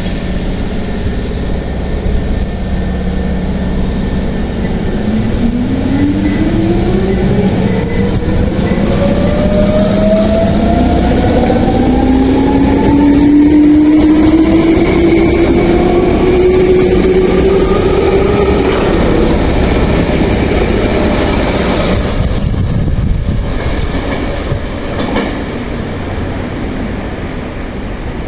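Hankyu 3300 series electric train accelerating, its traction motors and gearing giving a whine that climbs steadily in pitch for about ten seconds over the rumble of the wheels, then easing off with a couple of clicks near the end.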